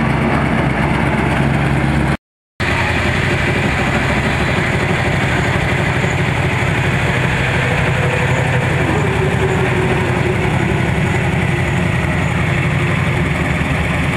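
Engine of a VS Holden Commodore sports sedan race car idling steadily. The sound drops out completely for a moment about two seconds in.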